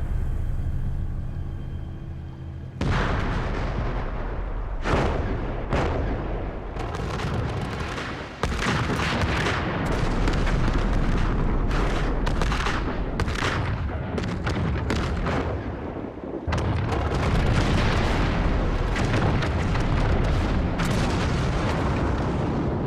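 A chain of heavy explosions: a deep, continuous rumble struck through with sharp blasts, with new, louder detonations cutting in suddenly about three, eight and sixteen seconds in.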